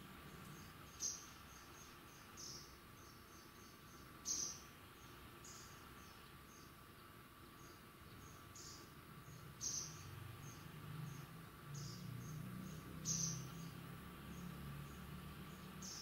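Small bird chirping: thin, high, short notes, a louder one every one to three seconds with fainter chirps between, over a faint steady hum.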